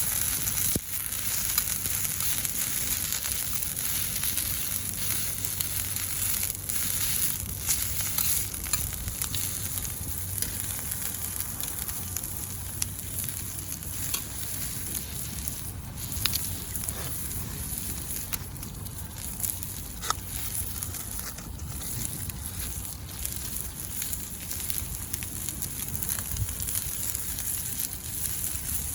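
Hamburg steak sizzling in a frying pan over a wood fire: a steady hiss with scattered small pops and crackles.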